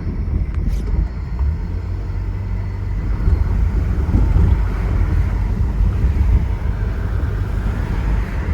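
Car on the move, heard from inside the cabin: a steady low engine and road rumble.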